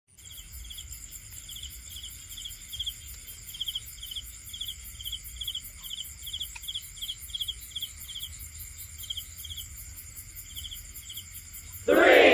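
Crickets chirping, short trilled chirps about twice a second, with a faster, higher insect pulsing steadily behind them. A loud shout breaks in right at the end.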